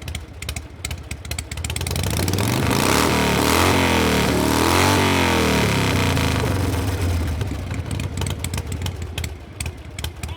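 Motorcycle engine passing close by: the sound builds over the first few seconds, peaks near the middle, then fades away.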